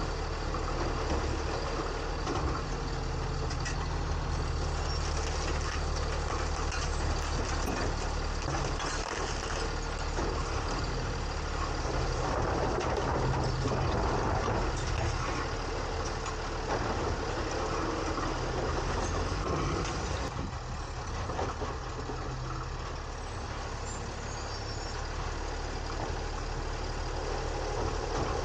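Garbage truck's diesel engine running steadily, heard from up in the truck's hopper, with a dense mechanical clatter over it. The level eases slightly about twenty seconds in.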